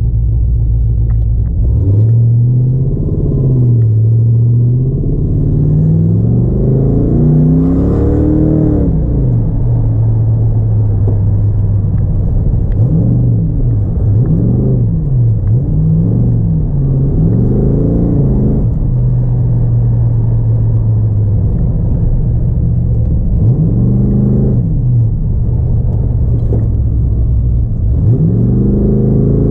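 Third-generation Pontiac Firebird's engine driven hard through an autocross course. The revs climb and drop again and again as the driver accelerates and lifts between cones, with a few stretches of steady throttle.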